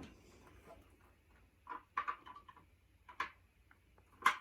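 A few light, spaced-out clicks and knocks from a cordless stick vacuum being handled, its motor not running.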